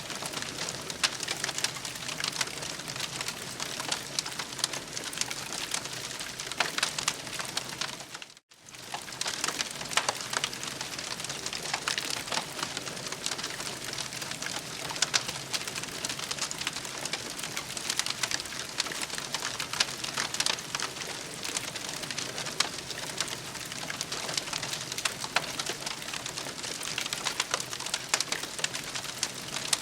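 Campfire crackling: a steady hiss dotted with many small sharp pops. The sound drops out briefly about eight seconds in.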